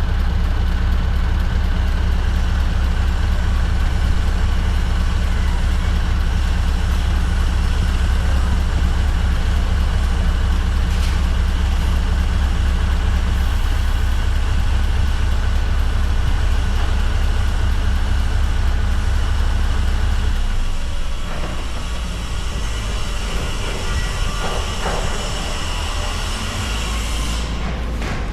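Scania R580 V8 truck engine with a straight-piped exhaust running steadily under way, with road noise. About 20 seconds in, the deep engine sound weakens and the overall sound gets quieter.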